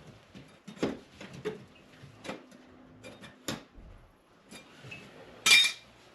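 Scattered small metallic clinks and knocks of hand tools working at the opened wall around a dryer vent duct, with a short louder rasp about five and a half seconds in.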